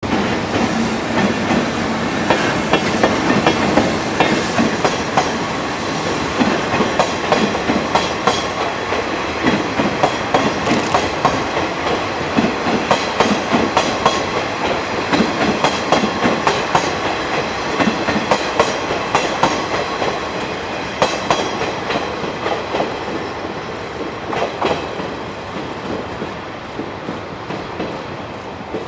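EF65 electric locomotive hauling a string of six KiHa diesel railcars, the wheels clacking over rail joints in a steady stream of knocks, fading near the end as the train draws away.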